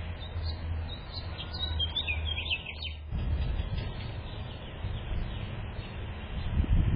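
Small birds chirping in short, high calls through the first three seconds. Under them runs a low rumble that turns rougher about three seconds in and swells near the end.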